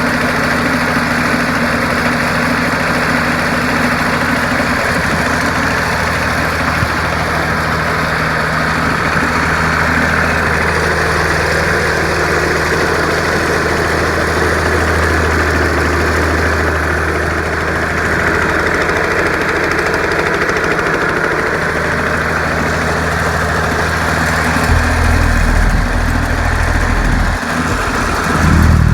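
Snapper's Wisconsin two-stroke engine running steadily on 32:1 fuel-oil mix. About 25 seconds in its note drops deeper and it gets a little louder near the end.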